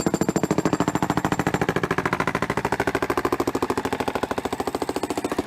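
Concrete breaker hammering on an old concrete walkway: a fast, even run of blows, about fifteen a second, that stops suddenly at the end.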